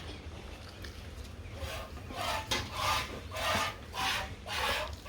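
Dry green gram husk (pesar chunni) cattle feed being rustled and scraped by hand. After about a second and a half comes a run of five or six short rasping strokes, roughly one every two-thirds of a second.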